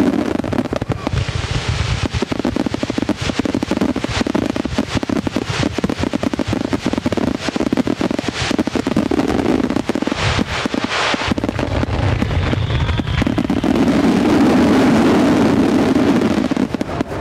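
Starmine fireworks barrage: a dense, continuous run of shell bursts and crackling, with no gaps, growing loudest in the last few seconds.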